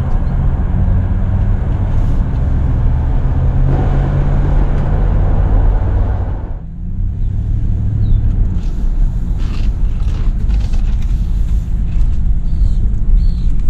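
V8 pickup truck engine running with a steady low note, dropping out briefly about halfway through and then picking up again.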